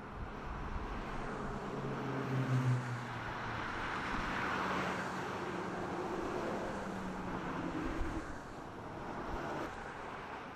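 Freeway traffic going by: a steady wash of tyre and road noise with the hum of passing engines, swelling as vehicles pass, loudest about two to five seconds in.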